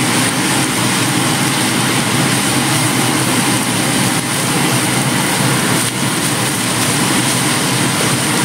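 Shredded chicken with onion and garlic sizzling as it sautés in oil in a nonstick frying pan, a steady frying hiss, with a few soft scrapes of a silicone spatula as it is stirred.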